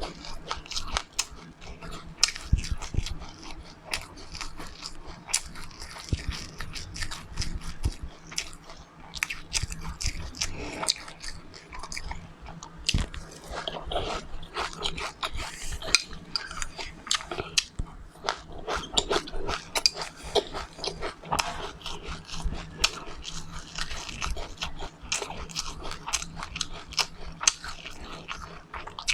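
A person chewing and crunching seeds close to the microphone: a steady, irregular run of many small, sharp crunches and wet mouth sounds.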